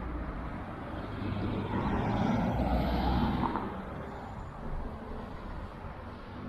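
A car driving past on a suburban street, its engine and tyre noise swelling to a peak about two to three seconds in and then fading away, over a steady low background rumble.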